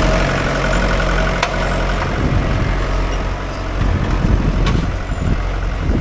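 Mahindra 575 DI tractor's diesel engine running steadily, with a couple of faint clicks.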